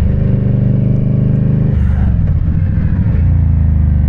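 2017 Indian Scout's V-twin engine running while under way. Its note breaks up for a moment about two seconds in, then goes on steadily.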